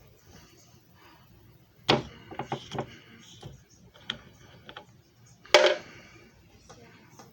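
Sharp clicks and knocks of something being handled: a quick cluster of clicks about two seconds in, then a single louder clack past the middle.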